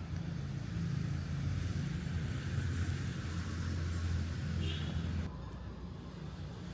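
An engine running with a steady low hum that gets louder about half a second in and drops off abruptly about five seconds in.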